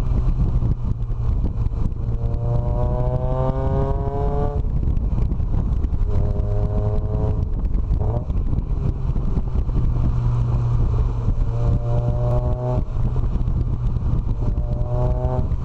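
A vehicle engine accelerating several times, its note climbing in pitch, then breaking off and picking up again, over a steady low rumble of road and wind noise.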